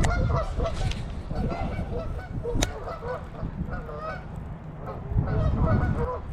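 Geese honking repeatedly, with the calls thickest at the start and again near the end. A single sharp click about two and a half seconds in.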